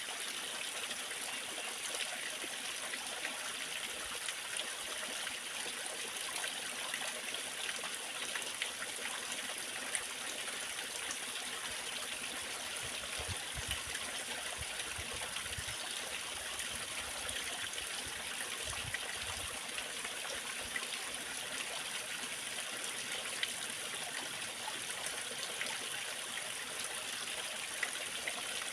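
Waterfall: water splashing and rushing steadily and evenly.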